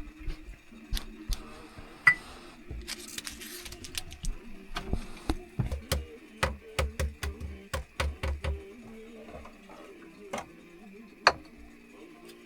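Irregular sharp clicks and knocks, with a run of quicker knocks and dull thuds in the middle, over a faint steady hum.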